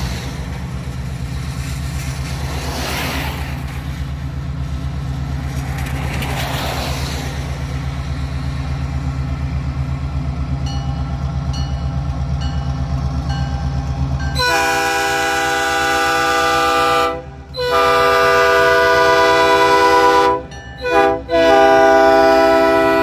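Train running with a steady low rumble, then its horn sounds a chord of several tones about two-thirds of the way in: long, long, short, long, the pattern of a grade-crossing signal.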